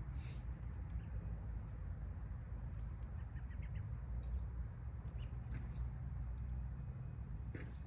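Wood fire in a fire pit crackling with scattered sharp pops over a steady low rumble, with a few faint bird chirps about three seconds in.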